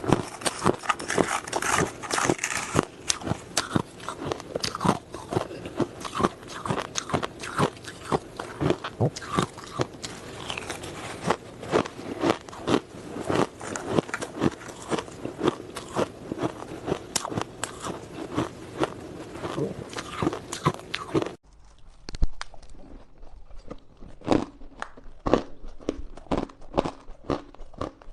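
Close-miked crunching of hard ice being bitten and chewed, as a dense run of sharp, irregular crunches. About two-thirds of the way in, the sound switches abruptly to a quieter background with sparser, more spaced-out crunches.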